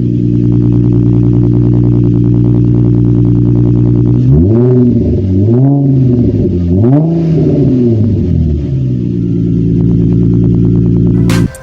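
Nissan 350Z's 3.5-litre V6 exhaust, running Motordyne ART pipes and XYZ Y-pipe, held at a steady engine speed, then revved three times in quick blips that rise and fall, then steady again. It stops abruptly near the end.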